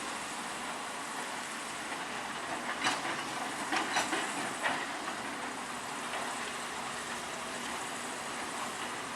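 Heavy construction machinery at work: a steady hissing noise with a short cluster of sharp knocks about three to five seconds in.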